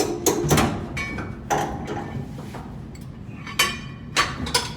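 A series of irregular metallic clanks and knocks, some with a short ring: metal tools and parts being handled and struck during work on a blower's bearing assembly.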